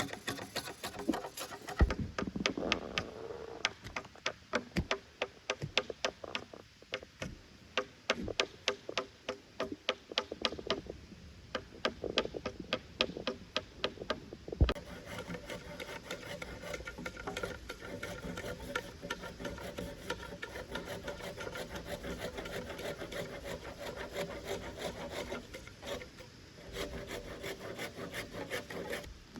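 Hand work on wood: quick, regular clicks and rubbing strokes for about the first half, a single louder knock, then a steadier rubbing sound.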